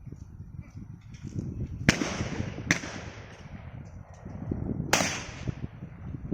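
Trap shotguns firing: two shots about a second apart near two seconds in, a double, then another shot about five seconds in, each with a trailing echo. Strong wind rumbles on the microphone throughout.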